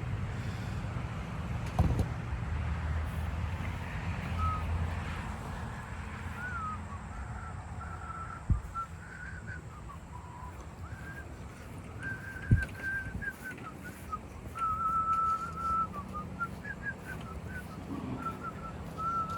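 A person whistling a slow tune, one clear pitch that moves between held notes, starting a few seconds in. Two sharp knocks sound partway through over a steady low rumble.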